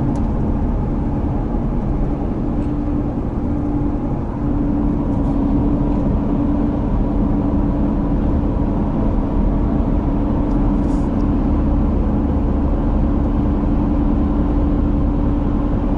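A car driving at road speed, heard from inside the cabin: steady engine and tyre noise with a low, even hum.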